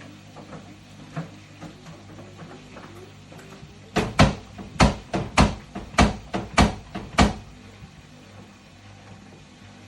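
Washing machine with a faint steady hum, knocking about ten times in quick, uneven succession over some three seconds. The repairer puts this noise down to a broken drum spider letting the tub rub.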